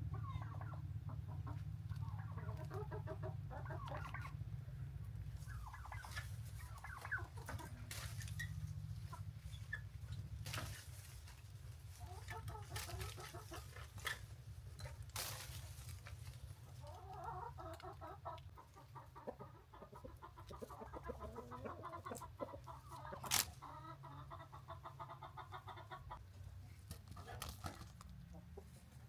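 Chickens clucking on and off, with a few sharp clicks or knocks, the loudest a little over twenty seconds in, over a steady low rumble.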